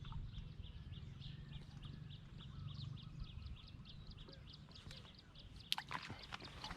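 Outdoor ambience: a high chirping repeats steadily about four times a second over a low rumble, with a sharp click almost six seconds in and a few lighter clicks after it.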